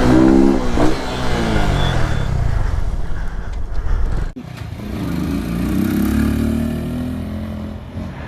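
Motorcycle engine revving up and down, with wind noise over it. The sound cuts off abruptly about four seconds in, then an engine revs up and eases back down.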